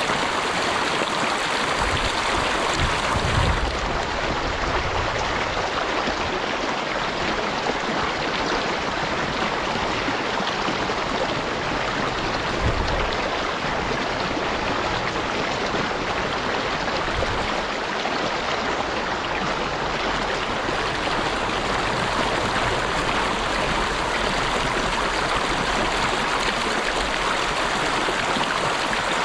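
Running water of a stream, a steady, even rushing and burbling, with a few brief low rumbles at about two, thirteen and seventeen seconds in.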